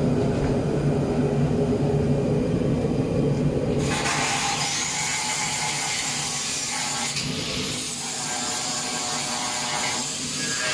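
A power tool working on the car body. A low steady hum gives way about four seconds in to a loud, high-pitched hissing grind.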